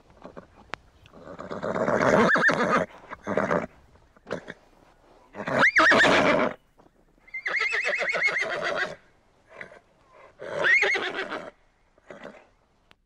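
Horses whinnying, about five neighs a second or two apart, several rising then falling in pitch. One call past the middle has a fast, quavering tremolo.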